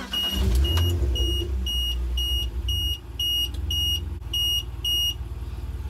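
BMW M52 straight-six starting and idling while an Engine Guard EG-01 low-oil-pressure alarm beeps about twice a second. The beeping stops about five seconds in as the engine builds oil pressure.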